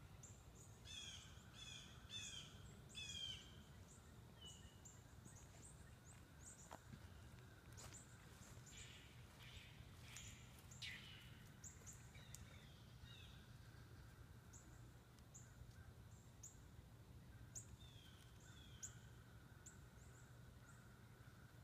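Faint outdoor birdsong: many short, high chirps, some in quick runs of three or four near the start, over a steady low background hum.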